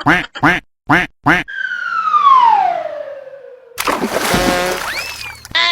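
Cartoon sound effects: four quick duck quacks, then a long whistle falling steadily in pitch. After that comes a loud noisy burst with short rising squeaks, like a transformation effect.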